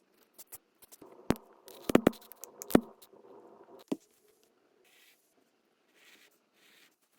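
Hands handling tools and materials: a series of sharp clicks and knocks over a short rubbing, scraping sound, then three faint short hisses.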